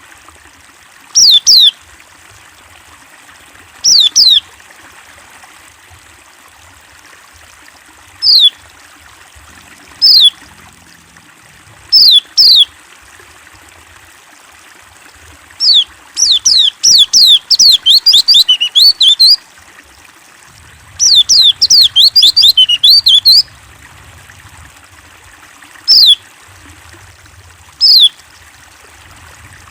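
White-eye (pleci) calling: single high, quickly falling chirps every couple of seconds, broken twice by bursts of rapid twittering song about halfway through.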